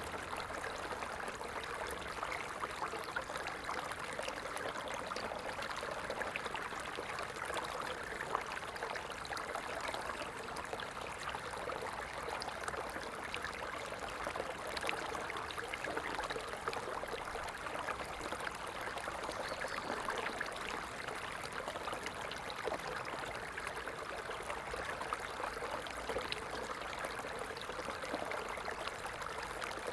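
A stream flowing steadily: a continuous rush of running water, sprinkled with many small splashes.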